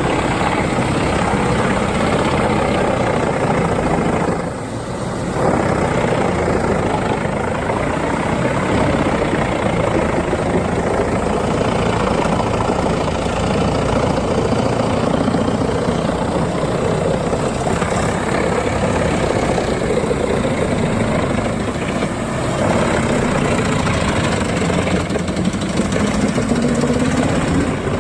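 Large drum wood chipper running steadily under heavy engine power, with a brief drop in level about five seconds in.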